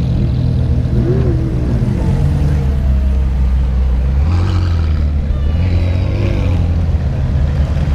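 A car engine idling with a deep, steady hum that settles lower in pitch about three seconds in.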